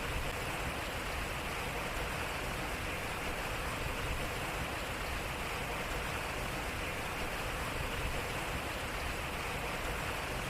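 Water pouring and splashing at a turning waterwheel, a steady, even rush of flowing water.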